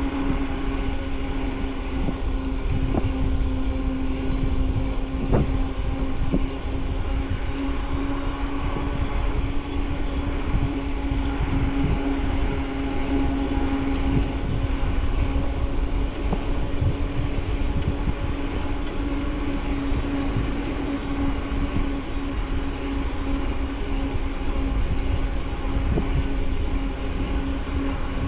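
Bicycle riding along a path, picked up by a camera mounted on the bike: a steady low rumble of the tyres rolling, with scattered small knocks and a steady hum underneath.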